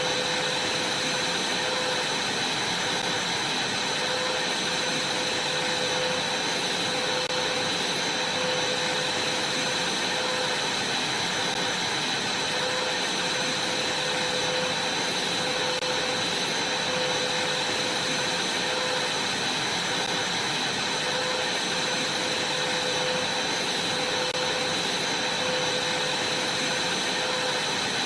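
Vacuum cleaner running steadily, a constant rush of air with a high whine over it and a fainter lower hum.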